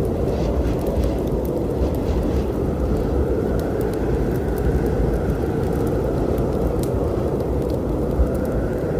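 A steady low storm rumble of rain and wind, with a wood fire crackling on top as scattered sharp pops. One louder pop comes near the end.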